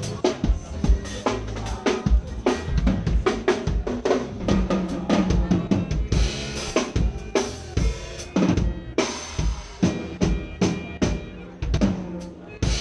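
A forró band playing at soundcheck: a drum kit keeps a steady, busy beat of kick, snare and rim hits over bass and sustained keyboard-like notes.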